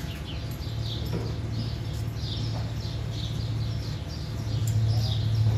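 A small bird chirping over and over, with short, falling high chirps about twice a second. Under it runs a steady low hum that comes in about a second in and grows louder near the end.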